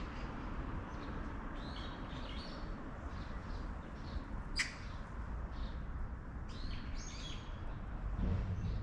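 Small birds chirping in short calls a few times over a steady low rumble, with one sharp click about halfway through.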